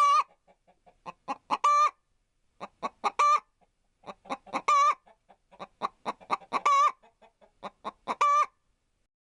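Domestic hen cackling: runs of short clucks, each ending in one longer drawn-out note, six times over. The calling stops shortly before the end.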